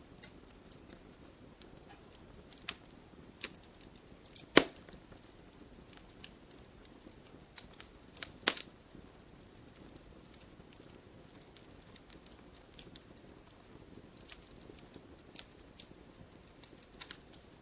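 Campfire burning, wood crackling with irregular small snaps over a low steady hiss of flame, and two louder pops about four and a half and eight and a half seconds in.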